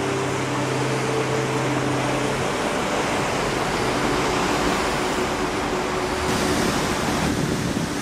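Sea waves breaking and washing over shoreline rocks: a steady rushing surf. A faint low steady hum sits beneath it for the first two and a half seconds.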